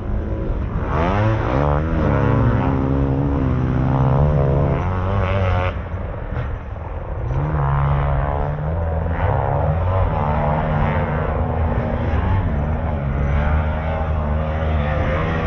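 Motocross dirt bikes racing on the track, several engines revving up and dropping back again and again as the bikes accelerate and shift.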